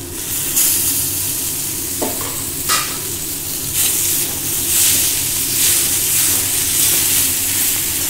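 Raw chicken pieces going into a hot metal wok of frying vegetables, sizzling, while a metal spatula scrapes and knocks against the pan as it stirs. The sizzle gets louder about halfway through as the chicken is stirred in, with a couple of sharp knocks of the spatula before that.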